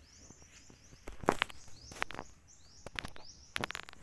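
A small bird chirping over and over, each note a short high call sliding downward, with a few brief sharp scuffs and clicks standing out above it, the loudest about a second in.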